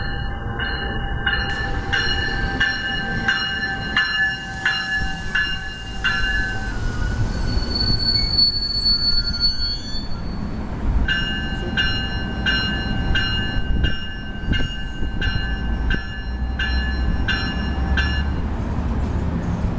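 Commuter train running through with its rumble throughout, while a bell rings in steady strokes about one and a half times a second. The bell stops for a few seconds midway and then rings again. Between the two bell passages a high, steady squeal sounds, typical of train wheels.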